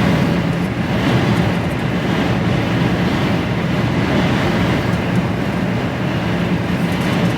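Steady drone of a loaded HGV container lorry at road speed, heard inside the cab: engine hum with road and tyre noise.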